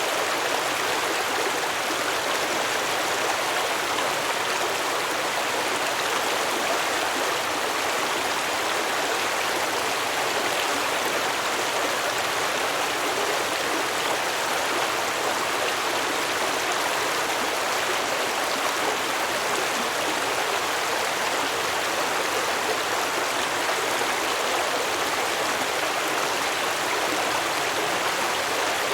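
A shallow stream flowing and babbling over rocks, a steady rushing of water.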